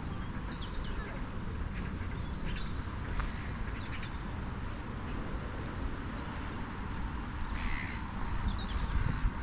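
Wild birds calling: scattered short, high chirps and two harsher calls, one about a third of the way in and one near the end, over a steady low rumble.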